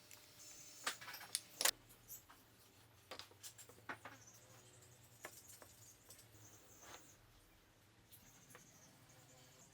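Scattered light clicks and taps at irregular intervals, the loudest about a second and a half in, over a faint steady hum.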